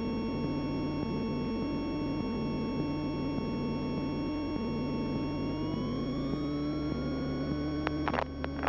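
Cessna 172N's four-cylinder engine heard through the cockpit intercom audio, a steady low hum with thin whining tones over it. About six seconds in the whine rises in pitch as the engine is brought up to takeoff power, and sharp clicks start near the end.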